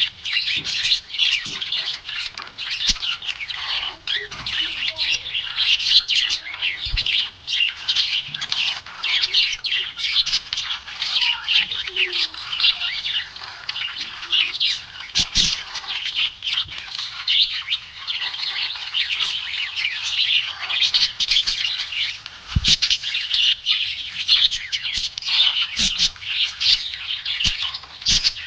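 Pet budgies chirping and chattering continuously, a dense stream of quick high chirps with occasional squawks. A couple of sharp knocks are heard in the middle and later on.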